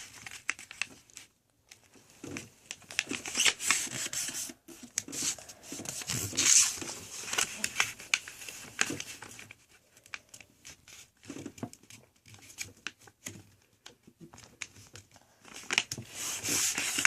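A sheet of paper being folded and creased by hand: irregular bursts of crinkling and rustling with short pauses between them.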